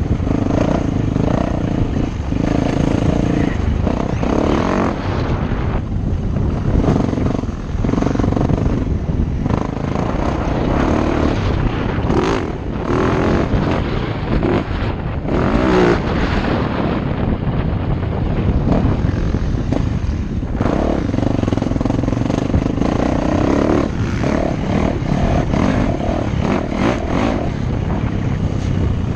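Motocross dirt bike engine running hard as it is ridden, revving up and down with the throttle, its pitch rising and falling repeatedly.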